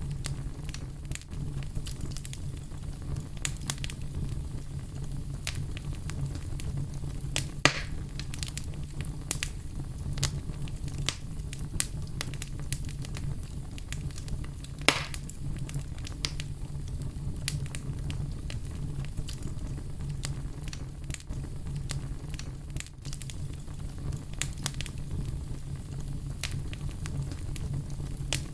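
Wood fire burning, with a steady low rumble of flame and frequent sharp crackles and pops, two louder pops standing out about a third and halfway through.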